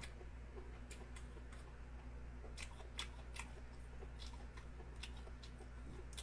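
A person chewing food, with small sharp mouth clicks every second or so, over a steady low hum.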